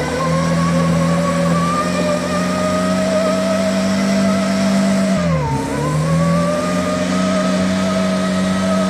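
Trials car engine held at high revs while the rear wheels spin for grip. The revs dip briefly about halfway through, then climb back and hold steady.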